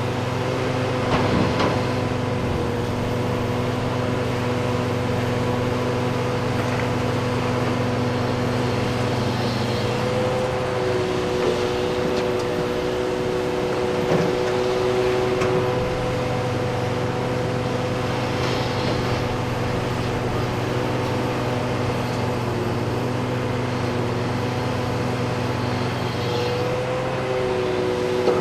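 Heavy diesel engines of earthmoving machinery, excavators and haul trucks, running steadily with a low hum. The engine pitch shifts about ten seconds in and again near the end, and a few faint knocks come through.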